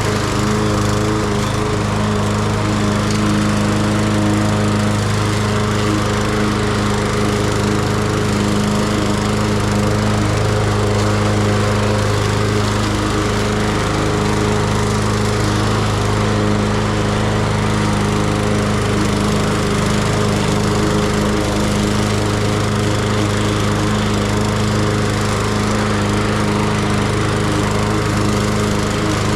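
Lawn mower engine running steadily at constant speed, cutting grass.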